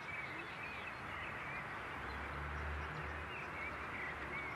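Birds chirping in short, repeated warbling calls over a steady background hiss, with a low rumble for about a second near the middle.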